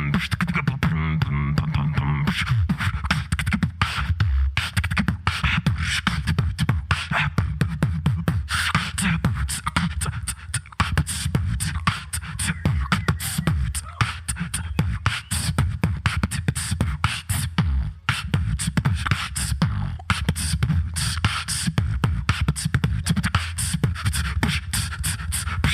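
Solo human beatboxing through a microphone: fast, dense percussive kicks, snares and clicks over a heavy vocal bass line, with a short hummed pitched tone near the start.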